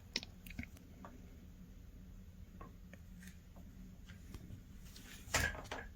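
Quiet room with faint scattered clicks and light rustling, and one brief louder rustle about five seconds in.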